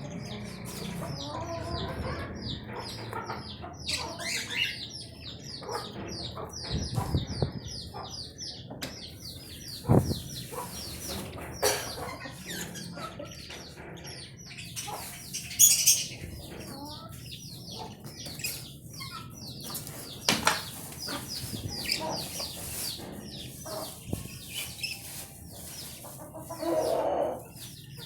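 Budgerigars chattering: many quick, high chirps and warbles overlapping, with a few sharp knocks and a short lower call near the end.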